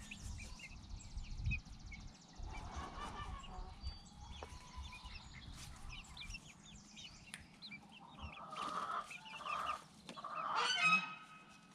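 Chickens clucking and calling, with the loudest call a little before the end, over the quick chirping of small birds.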